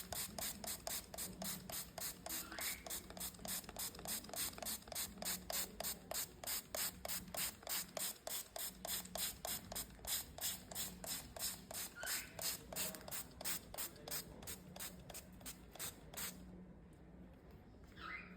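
Spray bottle misting a cockatiel, squeezed in quick regular puffs of about four a second, then stopping suddenly near the end.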